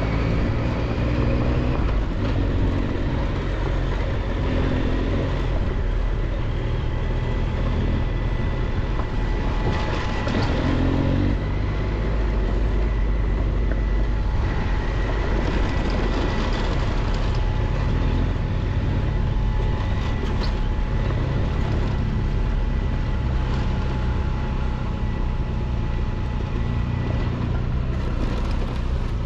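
Triumph Tiger 1200 XCX three-cylinder adventure motorcycle being ridden on a rough dirt road: a steady rumble of engine, tyres and wind noise with no change in pace.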